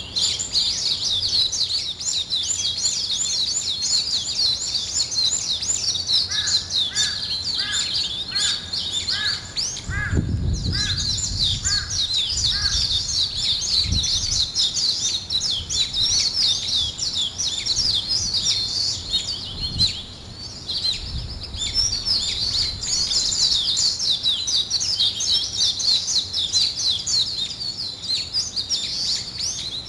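Many small birds chirping together in a dense, continuous chorus of high, rapid notes. Partway through, another bird repeats a lower note about twice a second for several seconds, and a brief low rumble comes in under it.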